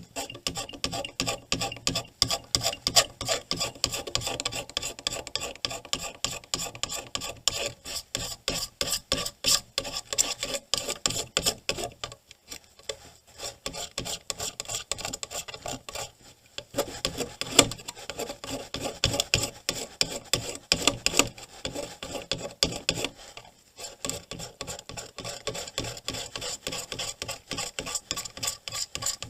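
Rapid back-and-forth scraping on a circuit board, cleaning corroded copper tracks before they are re-soldered. It comes as a fast run of strokes with a few short pauses.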